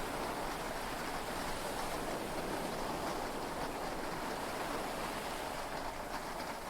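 Heavy rain and sea waves heard from inside a yacht cabin: a steady, unbroken wash of noise with no thunder clap.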